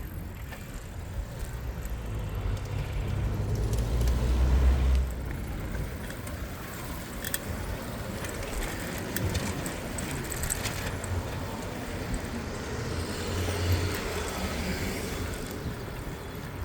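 City traffic heard from a moving bicycle. A motor vehicle's low rumble builds until about five seconds in, then drops off sharply. Light metallic rattling and clicks from the bike come through over the steady street noise.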